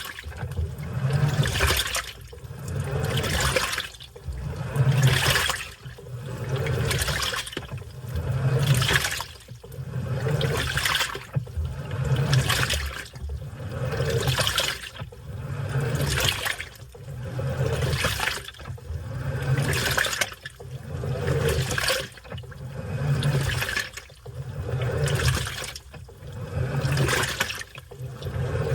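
Washing machine in its wash cycle, water sloshing in the drum in regular surges about every two seconds as the wash action turns back and forth.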